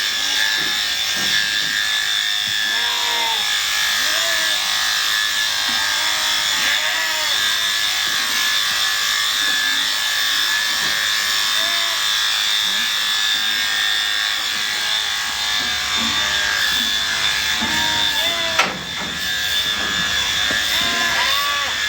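Electric sheep-shearing handpiece running with a steady high-pitched buzz, with one sharp click near the end.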